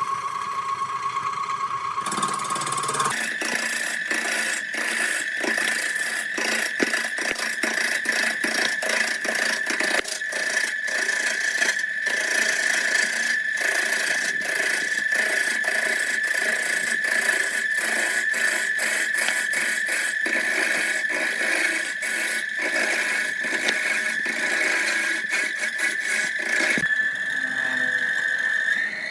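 An electric power tool running with a steady high whine. About three seconds in the whine steps up in pitch, and from then on it is peppered with rapid clicks and crackles as it works against wood. Near the end the whine shifts again.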